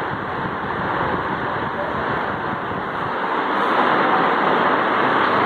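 Tron Eco Rio ceiling fan (1998 model) running, a steady rushing of moving air that grows a little louder about three and a half seconds in.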